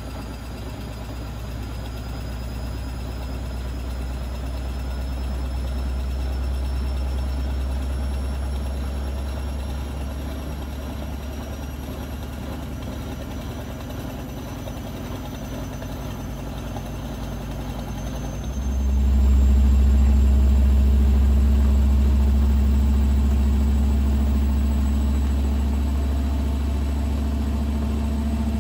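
Blomberg fuzzyDigitronic Granat 3200 washing machine spinning, its motor whine slowly rising in pitch. About two-thirds of the way in, the sound jumps suddenly louder, with a deep drum rumble as the spin picks up speed.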